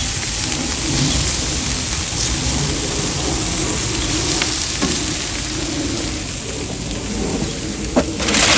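Steady sizzling hiss from a charcoal barbecue grill, with a low uneven rumble underneath and a few faint pops, a sharper one near the end.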